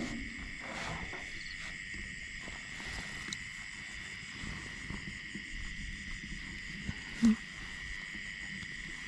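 Night insect chorus: a steady high-pitched drone. A single short knock sounds about seven seconds in.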